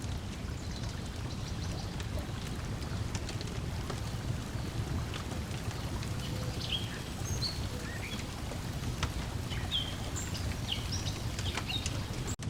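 Lakeside ambience: a steady low wash of water lapping at the shore, with small birds chirping throughout, more busily after about six seconds in, and light scattered crackles from a wood fire.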